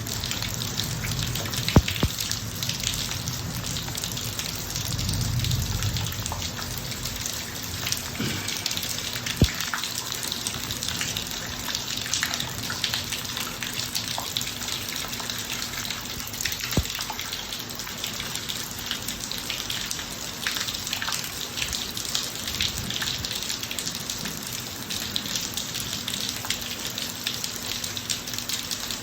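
Rain falling steadily on a driveway, an even hiss with sharper drops striking now and then. There is a low rumble in the first few seconds.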